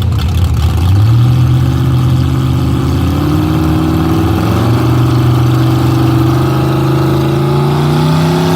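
Truck engine at a truck pull, working hard under load as it drags the weighted sled, its revs stepping up about a second in and then climbing slowly and steadily.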